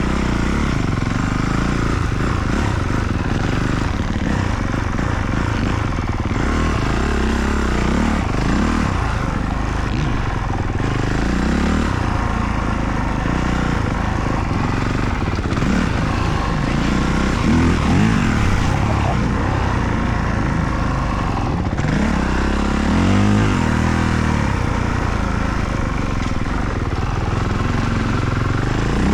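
Motocross dirt bike engine revving up and down as it is ridden round the track, its pitch rising and falling again and again over a steady rush of noise.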